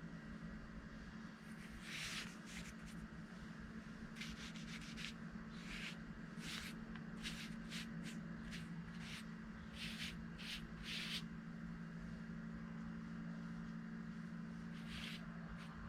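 A painting brush swishing across paper in short strokes, a quick run of them from about two seconds in to eleven, then one more near the end, over a steady low hum.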